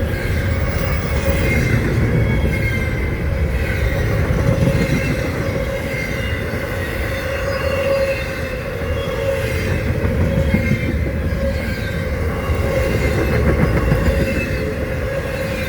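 Norfolk Southern freight train rolling past: a steady rumble of wheels on rail, with a thin, wavering squeal of wheels against the rails throughout.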